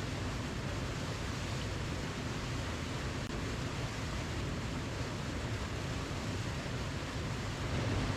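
Steady rushing of a waterfall, a constant roar of falling water with a deep low rumble.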